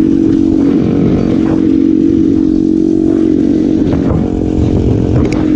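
Motorcycle engine running at a steady, mostly level pitch while riding, with a brief dip in revs a couple of times.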